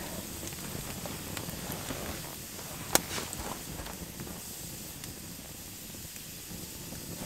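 Campfire crackling and hissing steadily, with one sharp pop about three seconds in.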